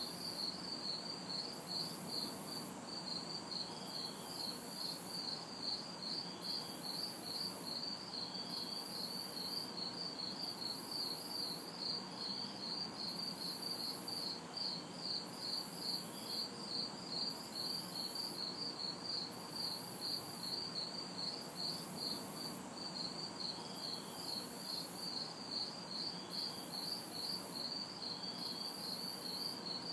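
Night chorus of crickets and other insects: a steady, even chirping at about three chirps a second, layered with a higher-pitched insect call that comes and goes about every second and a half. A faint distant traffic hum sits underneath.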